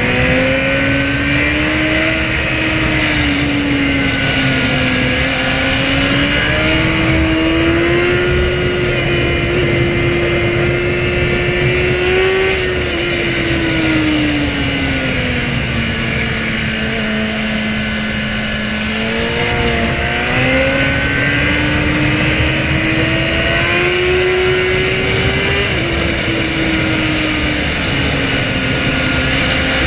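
Inline-four sportbike engine running at high revs on the road, its pitch rising and falling with the throttle and shifting with gear changes, dropping lower for a few seconds in the middle, over a steady rushing noise.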